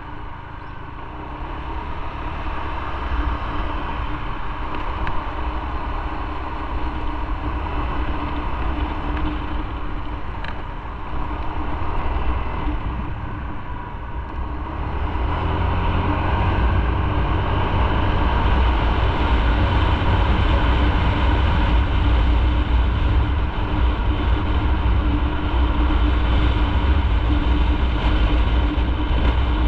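Motorcycle running under way, a steady engine drone with a low rumble that grows louder about halfway through.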